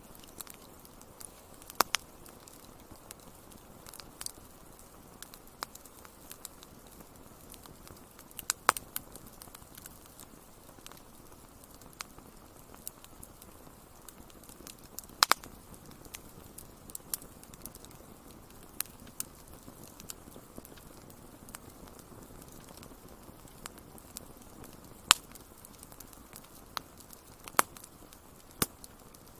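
Wood fire crackling in a fireplace: a soft steady hiss of flames with irregular snaps and pops, a few of them much louder.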